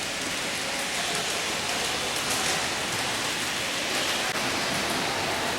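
Steady rushing noise of a moving train, heard from inside the carriage.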